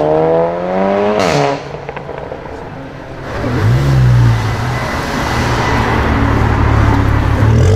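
VW Golf 7's turbocharged 2.0-litre four-cylinder accelerating hard with rising revs, broken by a sharp crack at an upshift a little over a second in. Then a second Golf 7 GTI revs and pulls away close by, its exhaust loud and steady.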